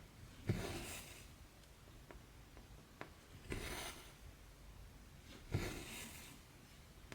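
Cross-stitch thread pulled through 14-count fabric: a rasping pull of about half a second, three times at intervals of two to three seconds, with faint ticks of the needle piercing the cloth in between.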